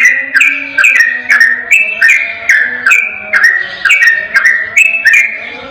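Yellow-vented bulbul (trucukan) singing a rapid, unbroken 'ropel' song: clear whistled notes, several a second, many stepping down in pitch, with no pauses.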